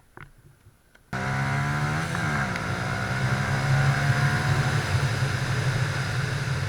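Motorcycle engine running with wind noise on the microphone, coming in abruptly about a second in; its pitch dips and swings back briefly, then holds steady.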